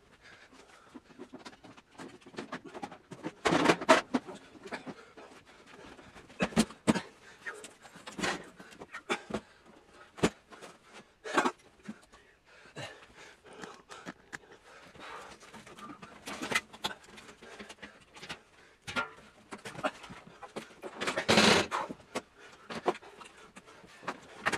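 Fast-forwarded handling noise as heavy computer units are lifted, shifted and set in place: irregular knocks, clunks and scraping, with two louder bursts of clatter, about four seconds in and near the end.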